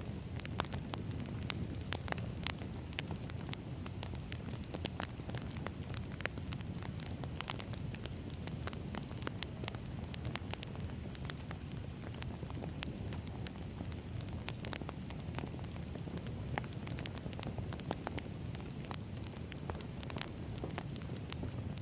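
Wood fire burning, with a steady low rumble and frequent irregular sharp crackles and pops of the burning logs.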